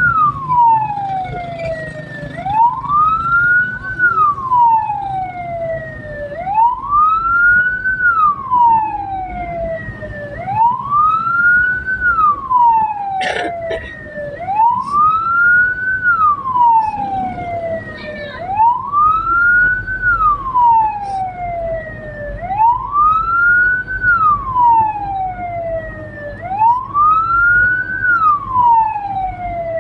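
Hearse's wailing siren, each cycle rising quickly and falling slowly, repeating about every four seconds, over a low vehicle rumble.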